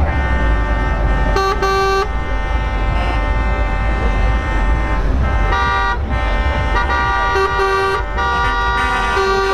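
Truck air horns sounding over the low rumble of heavy engines. Several horns hold chords throughout, with a handful of louder short blasts.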